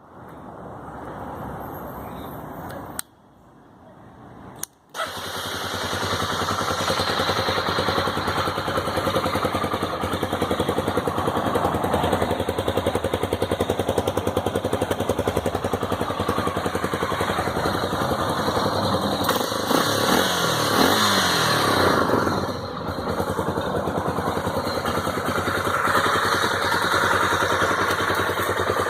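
Honda Tornado 250's single-cylinder four-stroke engine starting about five seconds in, after a couple of clicks, then idling with an even, rhythmic beat. It is revved briefly a few times about two-thirds of the way through.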